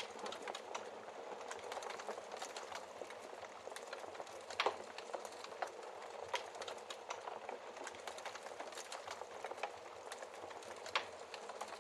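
Wood fire burning in a fireplace: a steady hiss with irregular crackles and pops throughout, the loudest pops about five seconds in and near the end.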